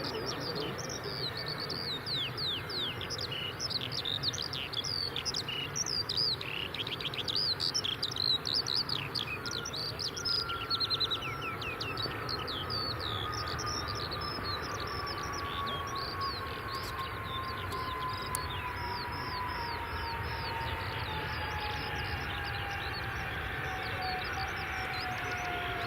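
Birds singing, many quick falling chirps, over a steady low rumble. From about ten seconds in, the whine of the approaching Fokker 100's Rolls-Royce Tay turbofans comes in, slowly falling in pitch.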